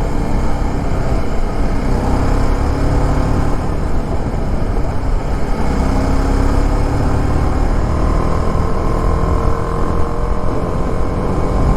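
Motorcycle engine running on the move under heavy wind rumble on the camera's microphone. The engine note rises slowly a few times as the bike picks up speed.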